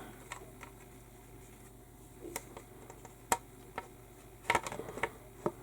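Hard plastic model-kit hull halves being handled and pressed together: quiet rubbing broken by a few sharp, irregular clicks and taps of plastic on plastic.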